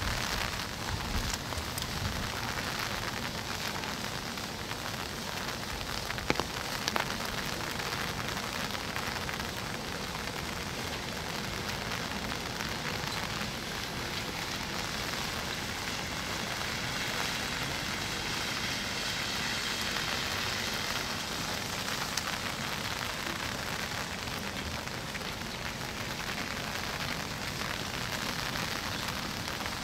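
Steady rain falling, an even hiss, with two sharp knocks a little over six seconds in.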